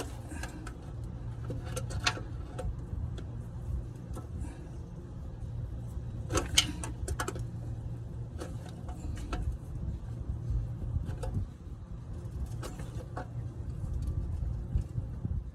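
Scattered clicks and knocks of tools and hands working at a car's oil filter from underneath, the sharpest about six seconds in, over a steady low rumble.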